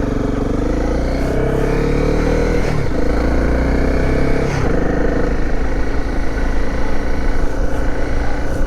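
Dirt bike engine accelerating and shifting up through the gears. Its pitch climbs, drops at a gear change about three seconds in, climbs again and drops at a second shift near the middle, then runs steadier.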